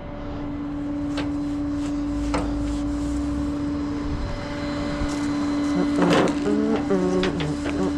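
A tow truck running with a steady hum, with a few sharp clicks and knocks and a short pitched sound that changes in steps near the end.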